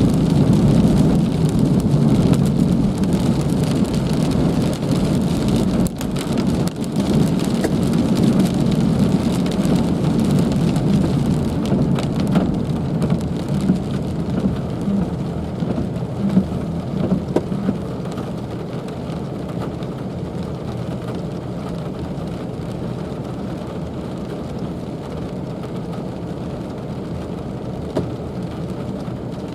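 Heavy rain pouring down: a dense, steady hiss of falling rain with many sharp drop impacts over a low rumble. It eases a little a bit more than halfway through.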